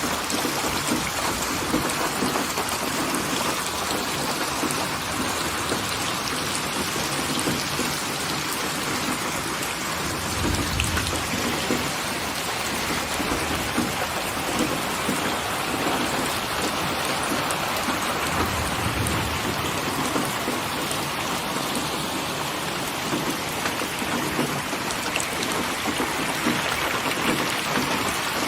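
Steady heavy rain falling. A low rumble of thunder comes about a third of the way in and again about two-thirds in.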